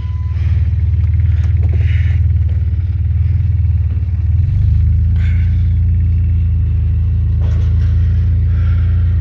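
Truck engine and road rumble while driving, a loud steady low drone that deepens about four and a half seconds in.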